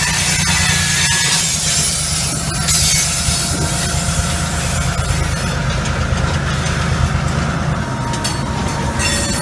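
Freight train of loaded covered hopper cars rolling past at low speed, steel wheels rumbling and grinding on the rails, over the steady low drone of the trailing locomotive's non-turbocharged EMD 645 diesel engine.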